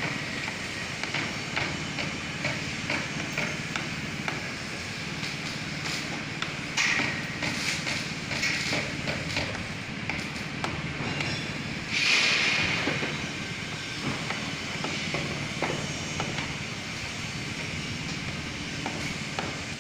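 Construction-site background: a steady machinery hum with scattered light knocks and clanks. Two hissing surges rise above it, a short one about seven seconds in and a louder one about twelve seconds in that fades away over a couple of seconds.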